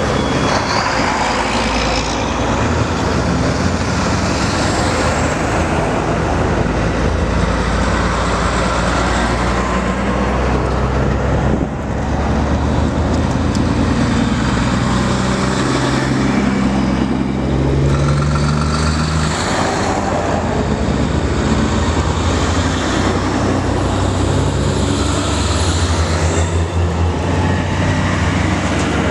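Heavy diesel trucks driving by in a convoy: continuous engine and tyre noise. The engine notes shift in pitch as the trucks go past.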